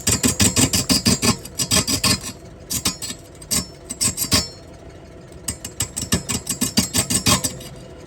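Rapid rhythmic scraping strokes on wood, about seven a second, coming in runs with a longer lull in the middle, over a faint steady machine hum.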